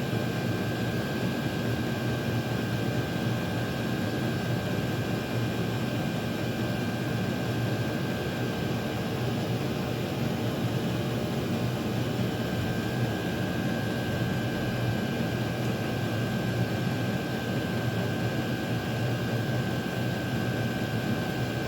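Chinese diesel air heaters running together, their blower fans making a steady whir with a low hum and a thin, high whine, as the heaters go through their cool-down cycle.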